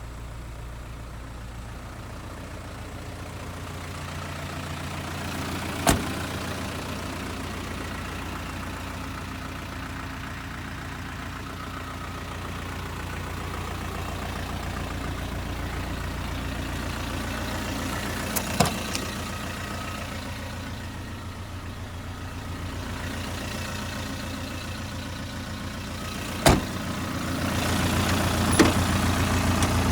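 Isuzu Elf truck's 4BC2 four-cylinder diesel engine idling steadily, getting louder near the end, with four sharp knocks spread through it.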